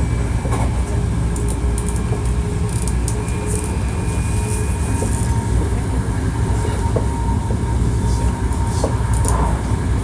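Hankyu 1300 series electric train (car 1858) running at speed, heard from inside the car: a steady low rumble of wheels on track with a faint steady whine and a few light clicks.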